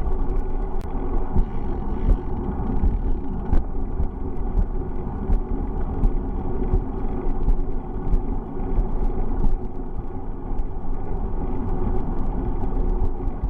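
Steady rumble of wind on the microphone and road noise while riding a bicycle, with scattered small clicks and rattles.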